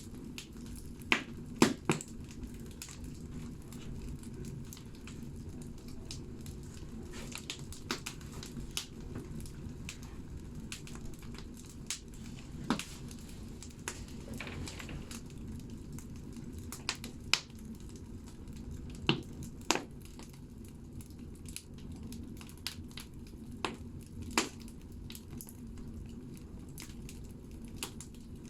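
Firewood burning in a wood stove: a steady low rumble of the fire with scattered crackles and pops from the logs, and several sharper, louder snaps spread through.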